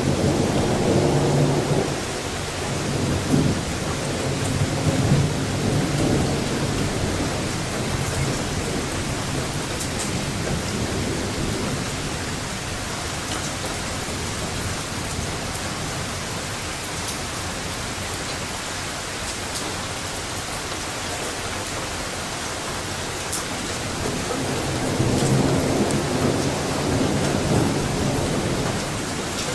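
Steady rain during a thunderstorm with two long rolls of thunder, one from the start lasting several seconds and another near the end.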